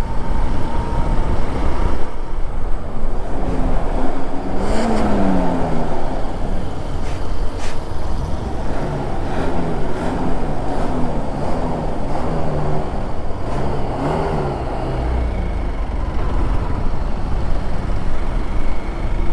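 Motor vehicle engine running while driving, its pitch repeatedly rising and falling with the throttle over a continuous road rumble.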